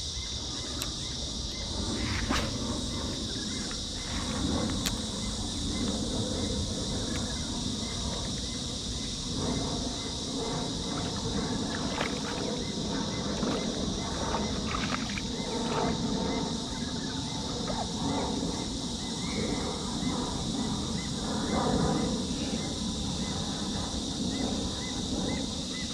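Outdoor insect chorus, a steady high-pitched drone, with a faint, evenly repeating chirp underneath and irregular low rustling from handling and movement.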